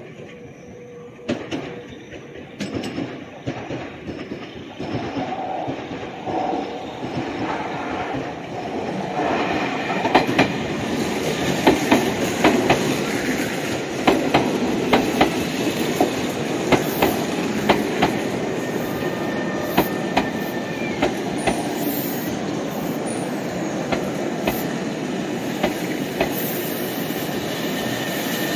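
Meitetsu Nagoya Main Line electric train moving through the station: a rumble that builds over the first ten seconds and then holds steady, with the wheels clacking over rail joints and points and a high-pitched squeal at times in the second half.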